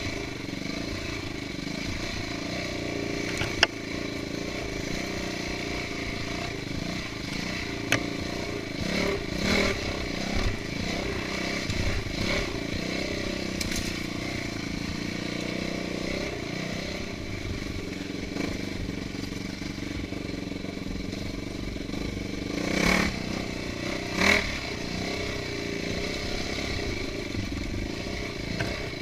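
Motorcycle engine running steadily while being ridden along a dirt trail, with a few sharp knocks and short louder swells in engine noise.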